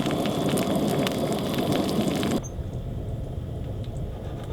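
Eggs frying in a pan, sizzling and crackling. About two and a half seconds in this cuts off abruptly, leaving a quieter low rumble.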